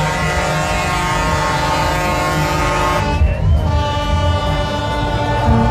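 Truck air horns blowing long, held chords, several horns at once over a low rumble. The chord changes about three seconds in.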